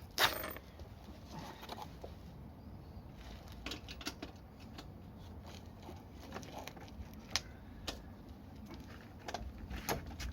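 Scattered light clicks and taps of tools and metal parts being handled during motorcycle work, with a sharp click just after the start.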